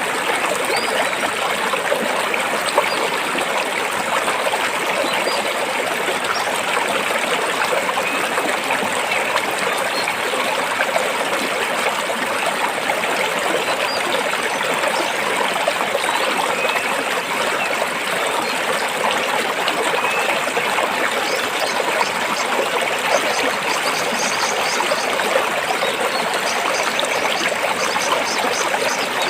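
Stream water flowing and splashing over rocks, a steady rushing babble.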